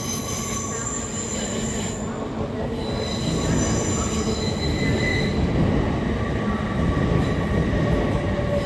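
LNER Class 801 Azuma electric multiple unit pulling into the platform. Its rumble grows louder, with high-pitched squealing tones that fade in and out.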